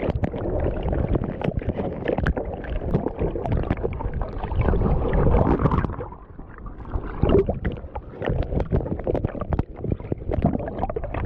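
Surf churning and splashing around a kayak in the shore break, with wind rumbling on the microphone; the noise is uneven, easing briefly about six seconds in before building again.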